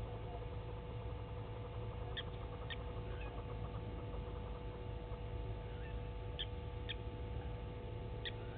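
Short, high bird calls, mostly in pairs about half a second apart and repeated a few times, over a steady low hum.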